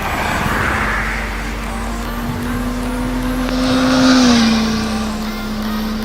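Motorcycle passing at speed. Its engine note holds steady and climbs slightly, is loudest about four seconds in, then drops in pitch as it goes by.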